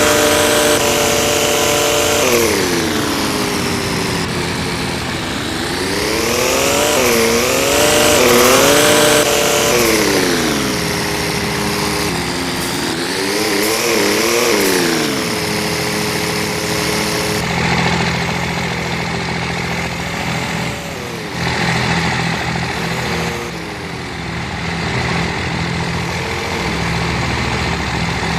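Truck engines revving at a meet: the pitch climbs and falls in long revs, loudest about eight seconds in, then gives way to shorter, smaller blips over a steady idle.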